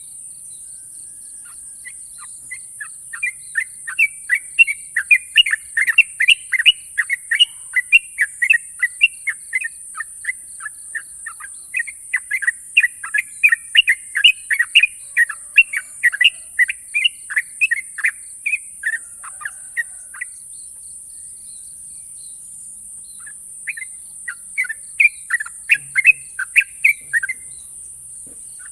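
Yellow-vented bulbul (trucukan) singing in long, fast runs of short, sharp chirping notes, a pause of a few seconds, then another run near the end. A steady high-pitched hiss runs underneath.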